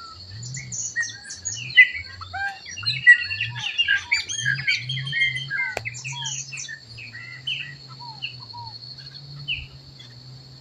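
A chorus of songbirds chirping and whistling, many short overlapping calls, busiest in the first half and thinning toward the end, over a steady high-pitched insect buzz.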